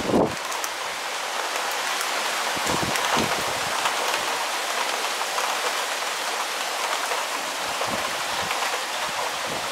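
Heavy downpour: a steady hiss of rain with a few brief gusts of wind on the microphone.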